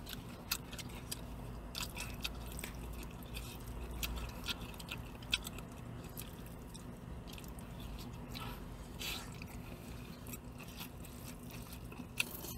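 Close-up chewing and eating sounds, with scattered small clicks and scrapes of a plastic spoon in a plastic takeout bowl of rice, over a low steady hum.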